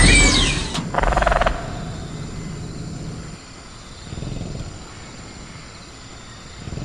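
Velociraptor creature sound effect: a shrill screech falling in pitch fades out in the first half second, followed about a second in by a short rattling burst, as of the cage being shaken, and a low growl around four seconds in. A steady high chirr of crickets runs underneath.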